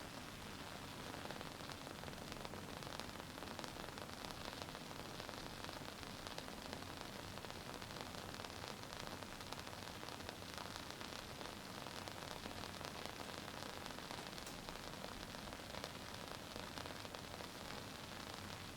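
WoodWick candle's wooden wick crackling faintly as it burns: a steady soft hiss dotted with many small, irregular ticks.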